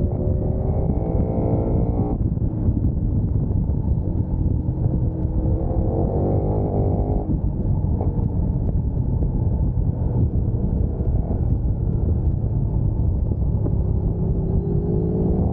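Sport motorcycle engine pulling hard. Its note rises and then cuts off abruptly, as at an upshift: once in the first two seconds, again about six seconds in, and once more near the end. A steady low rumble runs underneath throughout.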